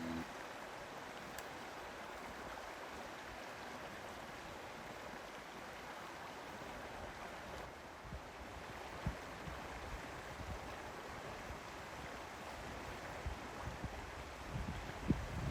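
Stream water rushing steadily, with a few low thumps near the end.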